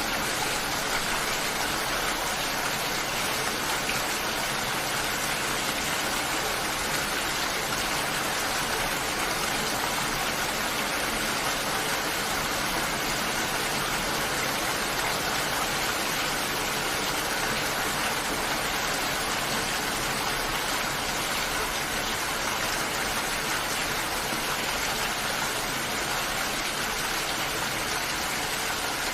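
Steady rain falling, an even, continuous hiss that does not change.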